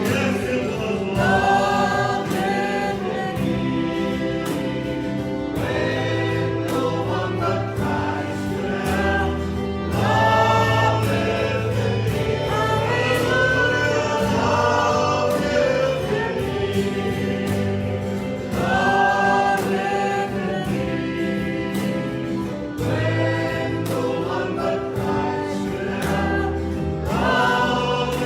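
Congregation singing a worship song with a band, with a steady beat.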